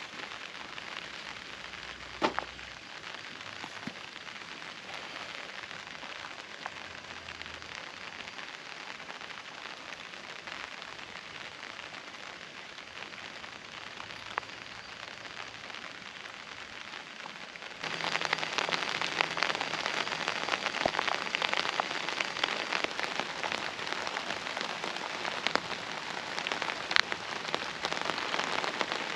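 Steady rain falling, with scattered sharp drop ticks on a surface. About two-thirds of the way in it suddenly becomes louder and denser, with many more drop hits.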